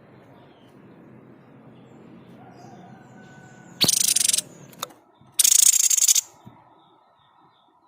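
Tepus dada putih (white-chested babbler, the 'sniper' bird) giving two loud, harsh rattling bursts, the first about half a second long and the second nearly a second, with a short click between them. Faint thin chirps sound in the background.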